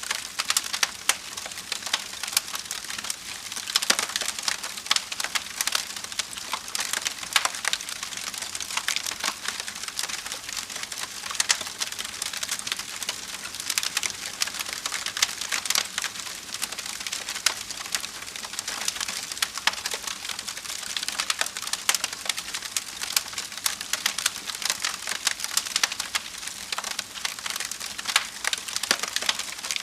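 Wood fire burning in a fireplace, crackling and popping constantly over a soft hiss.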